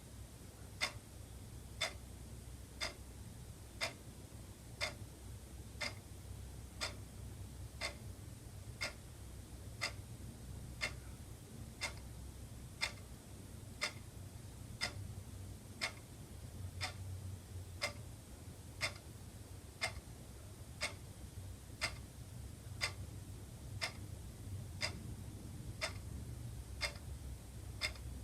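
Wall clock ticking steadily, about one sharp tick a second, over a faint steady low hum.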